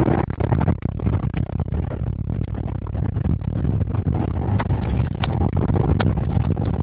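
Porsche Cayenne Turbo's V8 engine running as the car is driven, a steady low rumble with a few sharp clicks in the second half.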